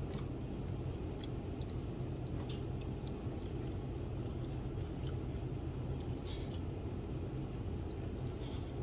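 Steady low background hum with scattered light clicks and brief rustles, like handling food packaging and utensils while eating.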